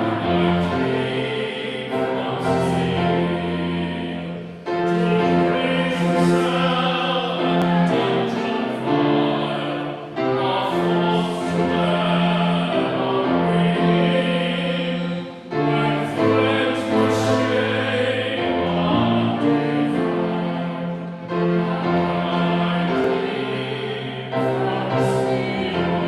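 Live classical-style singing with accompaniment, a trained, operatic-sounding voice over sustained, changing chords and a moving bass line.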